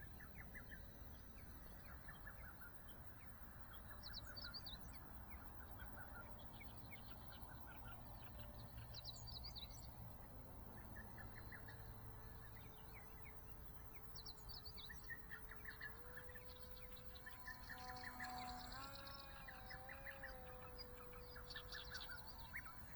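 Small birds chirping in short repeated calls, faint, over a low steady hum that rises slightly in pitch about two-thirds of the way through and then wavers.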